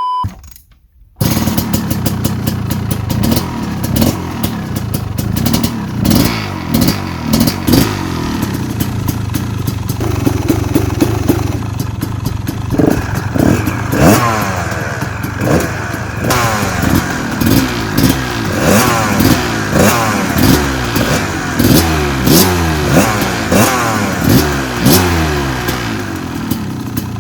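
Dirt bike engine revving hard again and again, its pitch climbing through the gears and dropping back, with knocks and clatter from the bike as it rides the motocross track. It cuts in about a second in.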